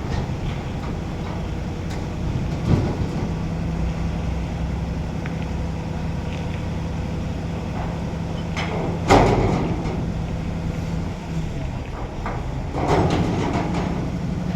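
Truck's diesel engine idling steadily, with three short noisy bursts over it, the loudest about nine seconds in.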